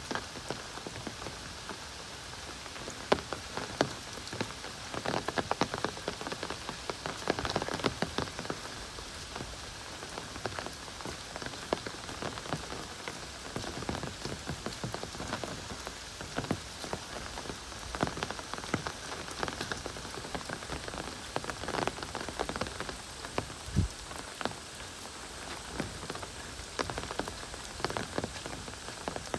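Heavy rain pouring steadily, with frequent sharp, irregular drop hits close by.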